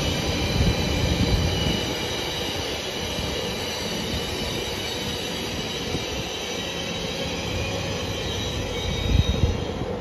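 Trenitalia E.464 electric locomotive and its coaches rolling away along the platform, wheels squealing in several steady high tones over a low rumble that eases after about two seconds. A short low bump near the end.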